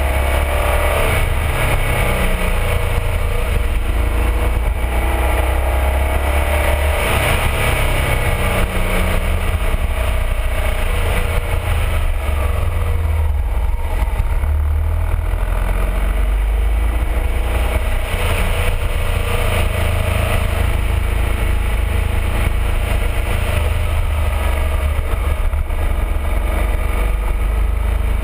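BMW R1200RT's boxer-twin engine running under way, its pitch rising and falling with the throttle through the bends. Heavy wind rush sounds over the bike-mounted camera.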